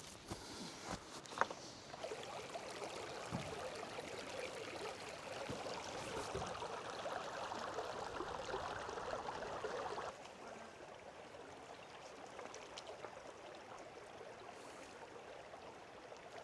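Creek water running steadily, dropping suddenly to a lower level about ten seconds in, with a few light knocks near the start.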